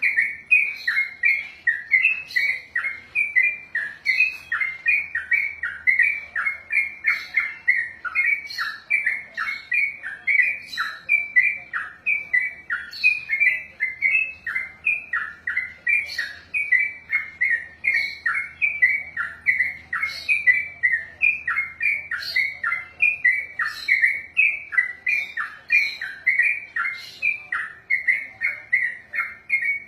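Yellow-vented bulbul (trucukan) singing a long unbroken run of rapid, repeated chattering notes, about four a second, each note dropping in pitch: the continuous 'ropel' song prized in songbird keeping.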